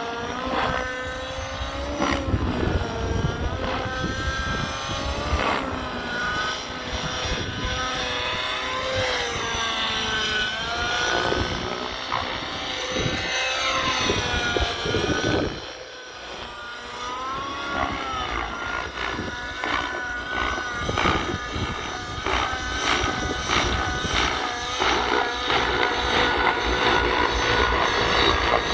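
O.S. 105 HZR nitro engine with a tuned pipe, in a Whiplash 730 RC helicopter, running in flight. Its pitch swings up and down again and again, and it drops in loudness briefly about halfway through.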